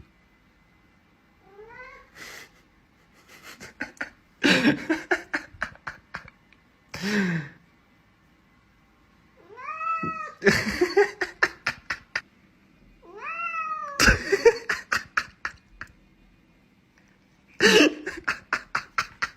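Domestic cats meowing: several drawn-out calls that rise and fall in pitch, with bursts of rapid, pulsing laughter between them.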